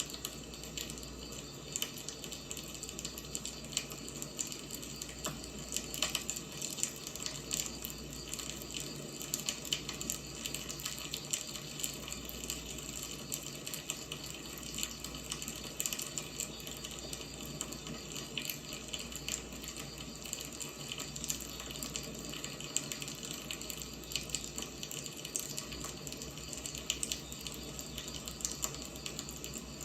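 Wood fire burning, a steady hiss with frequent small crackles and pops throughout.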